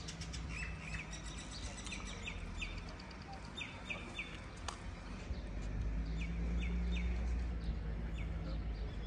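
Small birds chirping: short, high, downward-sliding notes in quick groups of two or three, repeated every second or two, over a low steady rumble that swells louder in the last few seconds.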